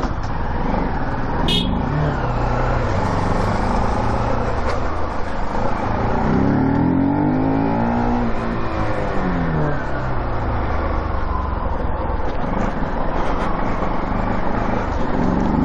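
Motorcycle running on the road: steady engine and road noise, with another engine rising and falling in pitch around the middle and a sharp click about a second and a half in.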